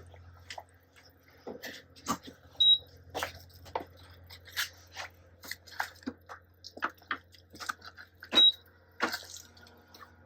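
Footsteps crunching in fresh snow, irregular and about one or two a second, over a faint steady low hum. Two short, high beeps sound, about three seconds in and again about eight seconds in.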